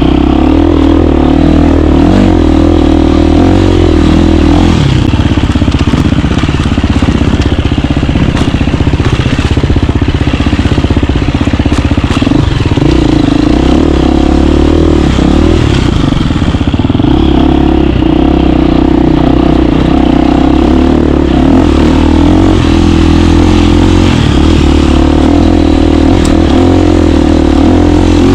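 KTM 350 dirt bike's single-cylinder four-stroke engine running loud and close while riding. Its note holds mostly steady, wavering through the middle stretch as the throttle is worked.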